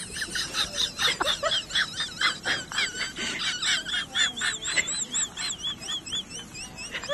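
Small birds chirping: many rapid, overlapping high peeps, several a second, with single arched notes standing out more clearly in the second half.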